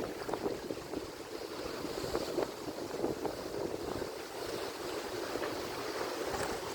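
Atlantic Ocean surf: waves breaking and washing in a steady, unbroken hiss with small crackles from the foam.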